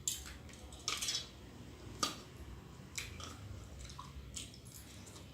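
A person chewing and biting into raw blue swimmer crab with mango salad, with a few short sharp clicks about a second apart.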